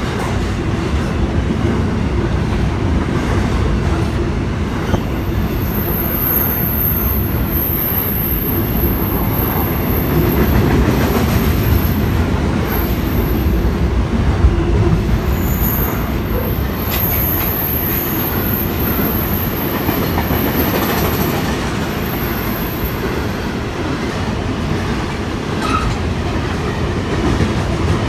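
Container freight train's wagons rolling past, a steady loud rumble of wheels on rail. A high-pitched squeal from the train comes and goes from about five seconds in until near the end.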